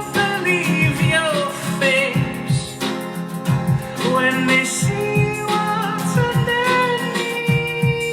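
A man singing a song over his own acoustic guitar. The guitar strums a steady rhythm under a drawn-out, gliding vocal line.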